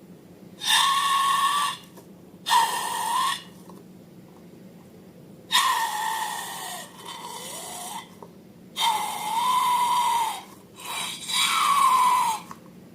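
Air squealing out of a stretched balloon neck in repeated bursts, about six of them, each a wavering, hissy whine that sometimes dips in pitch at its end.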